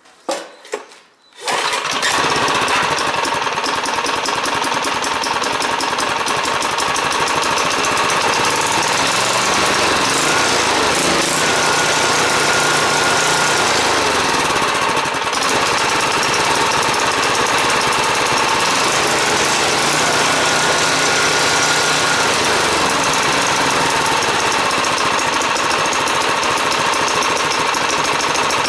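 Brush cutter's small engine: two short bursts in the first second, then it catches about a second and a half in and runs steadily at an even speed.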